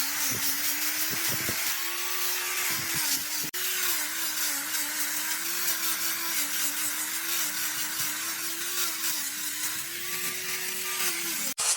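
A power tool's motor running at speed while working wood, its hum wavering and dipping as the load changes, over a hiss of cutting or abrading. It breaks off briefly about three and a half seconds in and again near the end.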